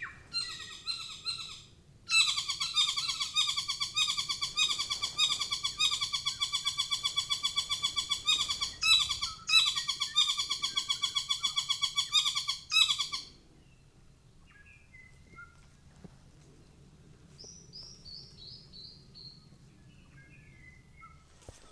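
A bird calling a long, fast run of repeated notes, several a second, that breaks off after about thirteen seconds. Softer scattered chirps and a short falling run of high notes follow.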